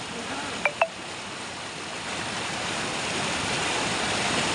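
Floodwater rushing steadily, washing away a road, a dense even rush of water that grows a little louder about halfway through. Two short sharp clicks sound just under a second in.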